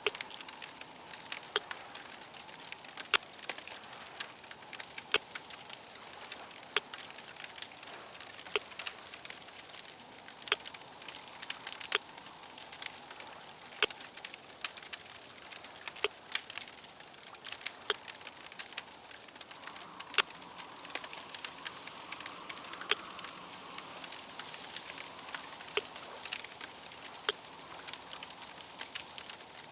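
Fire crackling, with frequent irregular sharp pops over a steady hiss.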